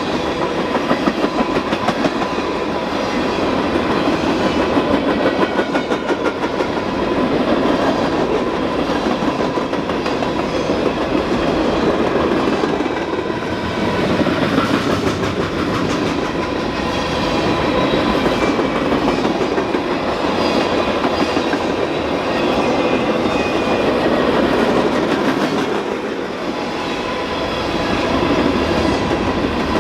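Freight train cars rolling past, their wheels clicking in a rapid, steady rhythm over the rail joints.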